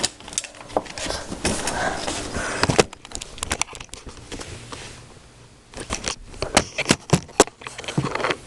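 Handling noise from fishing gear being moved around in the boat: rustling with scattered sharp clicks and knocks, dying down midway, then a quick run of sharp clicks near the end.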